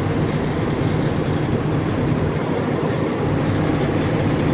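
Semi truck's diesel engine idling with a steady low hum.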